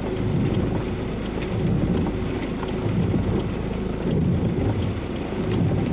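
Heavy rain striking a car's body and windscreen, heard inside the car as many scattered sharp ticks over a steady low rumble that swells and fades every second or so.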